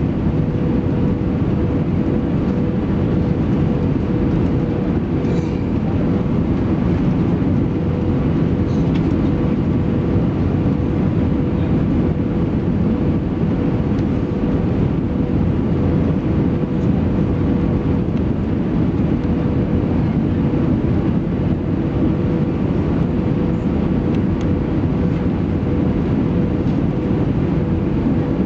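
Steady cabin noise inside an Airbus A320-214 with CFM56 engines: an even low rush of engine and airflow noise with a steady hum running through it, unchanging throughout.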